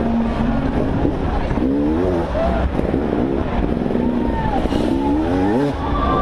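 Motocross dirt bike engine running hard, its pitch rising and falling over and over as the throttle opens and closes.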